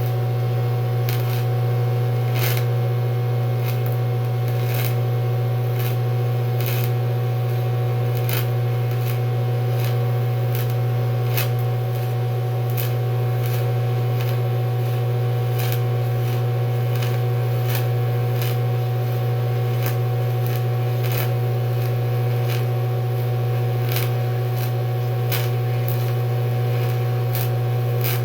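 Steady low electrical hum from a welding machine during DCEP scratch-start TIG welding of aluminum, with sharp irregular ticks and crackles about every second.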